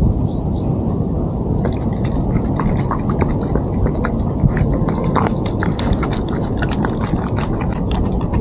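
A cat chewing food, with many crisp crunching clicks from about two seconds in, over a steady low rumble.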